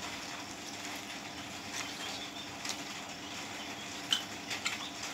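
A person eating chicken curry off the bone: soft, scattered chewing and mouth clicks over a steady background hum.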